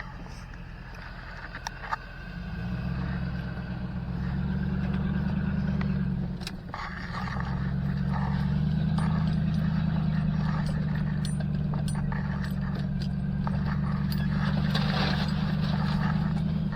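Pickup truck engine running at low speed on a rough trail, growing louder about two seconds in and dipping briefly near the middle, with scattered sharp knocks.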